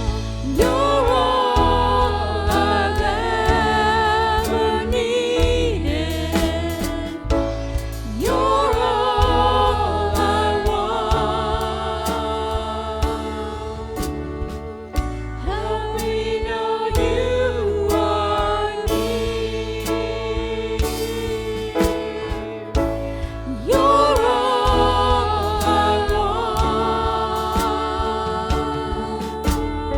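Voices singing a worship song with instrumental accompaniment: a sung melody over steady held bass notes and light percussion.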